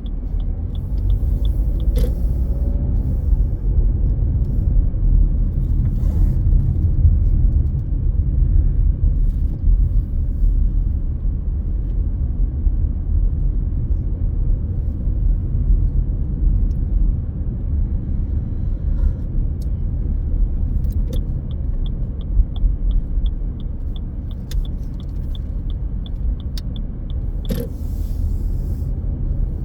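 Car driving, with a steady low road rumble. A faint, even ticking about twice a second runs near the start and again for several seconds near the end, with a few sharp clicks.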